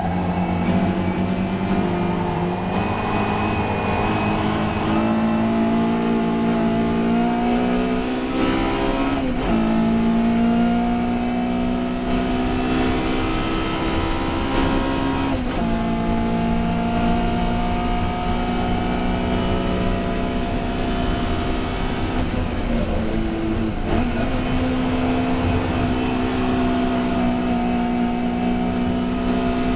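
Touring race car engine running hard at high revs, its pitch climbing slowly under sustained acceleration and dropping sharply for a moment three times, as at a gear change or a lift off the throttle.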